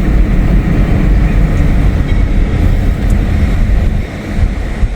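Steady, loud low rumble of a moving vehicle, easing briefly about four seconds in.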